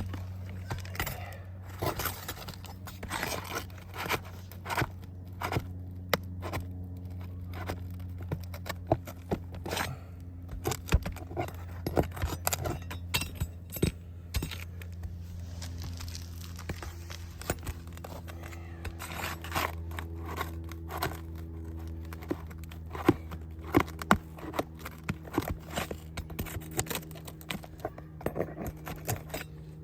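Old, brittle roof shingles that are stuck to each other being pried and torn apart: irregular crackling, snapping and scraping. A steady low hum runs underneath.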